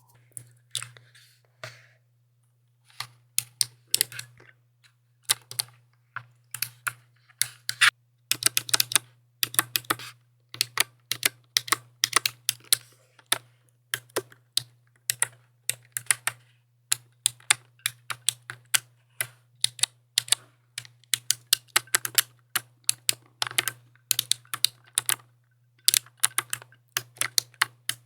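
Mechanical keyboard typing: quick runs of clacking keystrokes, with a short pause a couple of seconds in.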